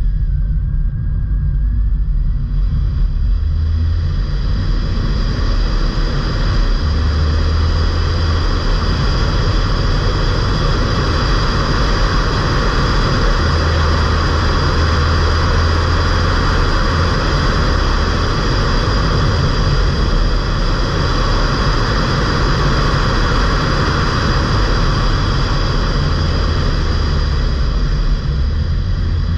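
Ford Fiesta mk8 1.5 TDCi four-cylinder turbodiesel on a stage 1 remap, running steadily under way, with a constant low engine drone. Road and wind noise rise and fall with the car's speed and are strongest through the middle.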